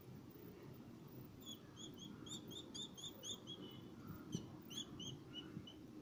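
Common myna nestling giving faint, short, high chirps in quick succession, about three a second, from about a second and a half in until near the end: the begging calls of a chick that is hand-fed.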